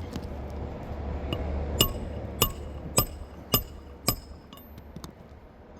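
Hammer striking the steel tail of a roof snake five times, about half a second apart, each blow a sharp metallic clink with a brief ring, driving the tool to cut out a roofing nail under a shingle tab.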